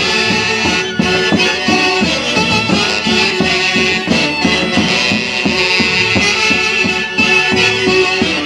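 A Peruvian orquesta típica playing an instrumental passage between sung verses: wind instruments carry a sustained melody over a steady beat.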